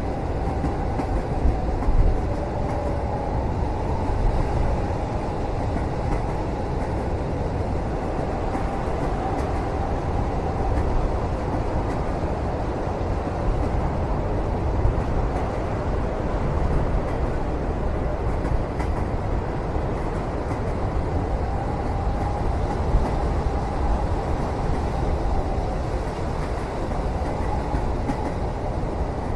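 Moving train heard from inside a sleeper cabin: a steady low rumble of running gear, with faint wavering squeals and a few light knocks.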